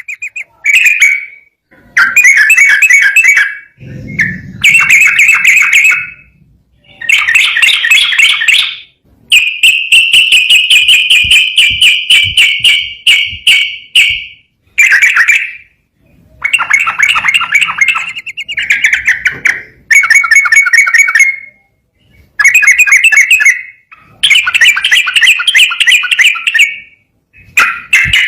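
Yellow-vented bulbul (trucukan) singing loudly in a string of rapid, chattering phrases, each a second to several seconds long, with short pauses between. A brief low rumble comes about four seconds in.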